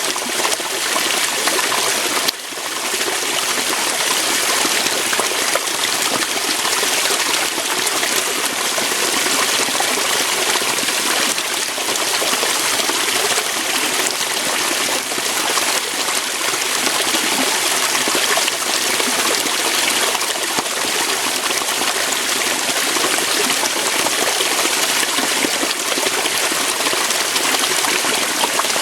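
Waterfall: water pouring and flowing over rocks in a steady rush, with a brief dip in level about two seconds in.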